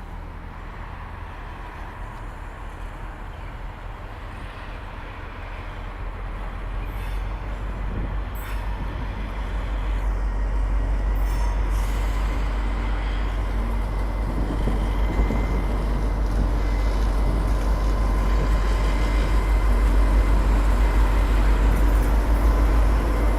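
Train departing, its low engine rumble and rolling noise growing steadily louder as it comes closer, with a thin steady high squeal tone running over it.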